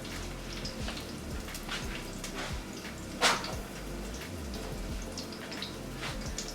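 Kitchen work noises: scattered light clicks and knocks, with one louder sharp knock about three seconds in, over a steady low hum.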